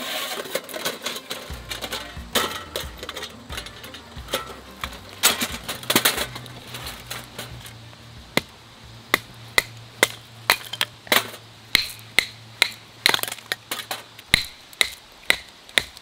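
Irregular metal clanks and knocks as a folding steel fire pit is handled, then, from about halfway, a small hatchet knocking into a stick of firewood about twice a second, splitting it into kindling.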